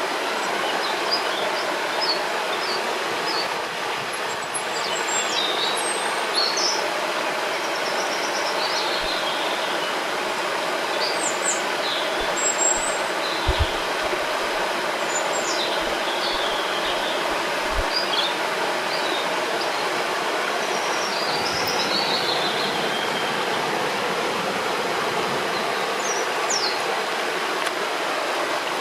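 A river or waterfall rushing steadily, with small birds chirping and twittering over it at scattered moments.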